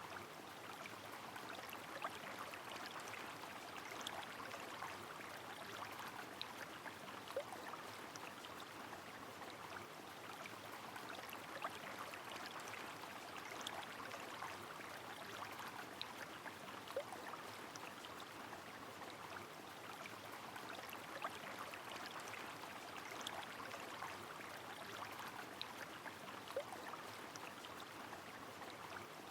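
Rain falling on a flowing river: a steady rush of water with scattered sharp drop ticks.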